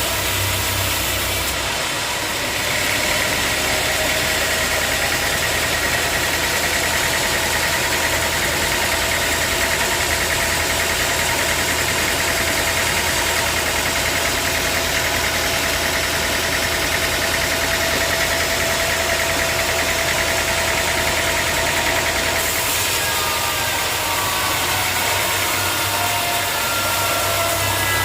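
Band sawmill running steadily while sawing a mahogany log. A high whine sets in about two seconds in and stops about twenty-two seconds in. Short sliding tones follow near the end.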